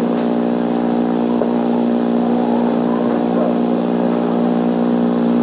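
A loud, steady drone holding several pitches at once, unchanging throughout.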